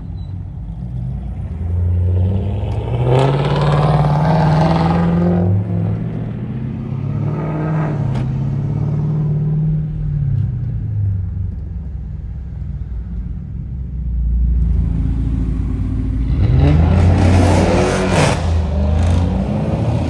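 Car engine rumbling and revving in swells, its pitch rising and falling. About sixteen seconds in comes a sharp rev that climbs and drops back, the loudest moment.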